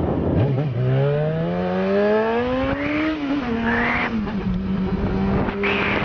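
Motorcycle engine accelerating hard, its pitch climbing steadily for about three seconds. The pitch then drops in two steps and settles into a steadier run.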